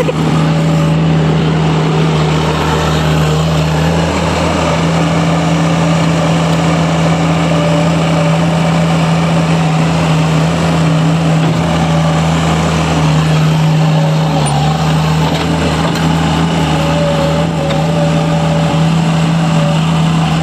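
A vehicle engine running steadily close by, a loud, even low hum.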